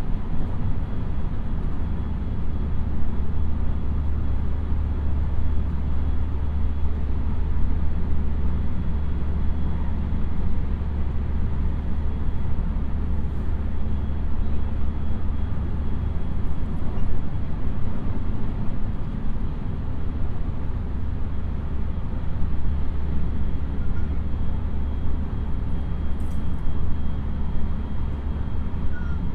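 JR West 223 series electric train running steadily, heard from inside the passenger car: an even low rumble of wheels and running gear on the rails, with a faint steady high tone above it.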